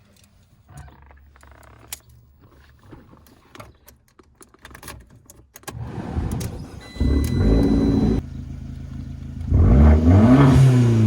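Keys jangling, then the Fiat 500 Abarth's turbocharged four-cylinder engine is cranked and starts about six seconds in, running loud at a high idle before settling lower. Near the end it is revved once, the pitch rising and falling.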